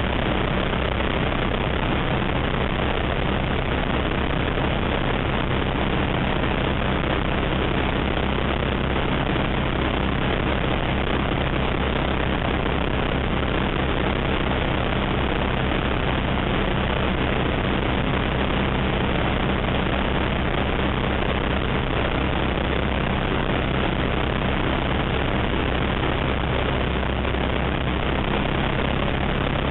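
Steady drone of an ATEC Zephyr ultralight's engine and propeller in flight, holding constant power throughout.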